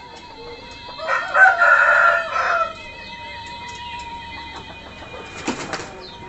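A rooster crows once about a second in, a single call lasting about a second and a half. A short scratchy rustle follows near the end.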